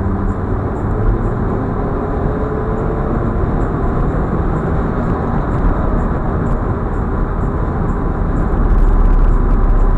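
Audi A4 45 TFSI quattro driving at highway speed: steady deep road and wind noise, with a faint tone rising slowly during the first few seconds.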